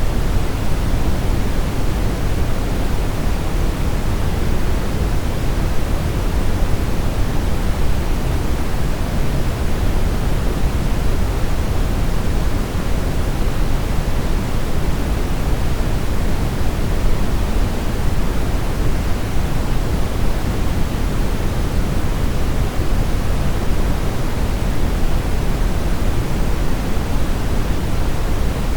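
Steady brown noise: an even, deep rushing hiss, strongest in the low end and fading off toward the highs, without change.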